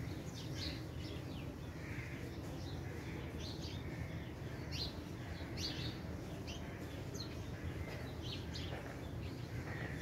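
Small birds chirping, with short high chirps scattered irregularly throughout, over a steady low background noise.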